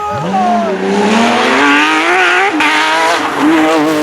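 Porsche 911 GT3's flat-six engine at full throttle: the pitch dips at the start, then climbs steadily for about two and a half seconds before dropping sharply as it shifts up, and holds high revs to the end.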